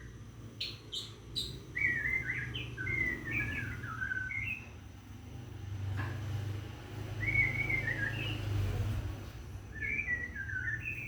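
Caged scarlet minivet (sepah raja) singing in three bursts of quick, warbled chirps, about two seconds in, near eight seconds and near the end. A few sharp clicks sound about a second in, over a steady low hum.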